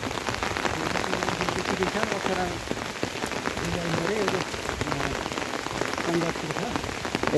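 Steady rain falling, a dense patter of drops, with faint voices talking underneath at times.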